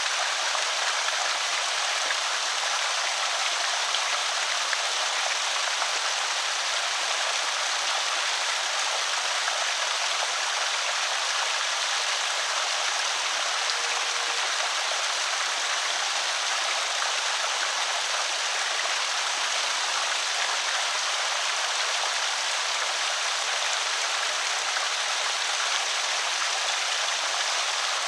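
Water of Dry Creek pouring steadily over a small spillway, an even rushing splash with no breaks.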